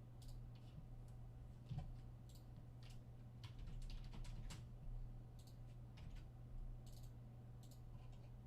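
Scattered, irregular clicks of a computer keyboard and mouse, over a steady low hum.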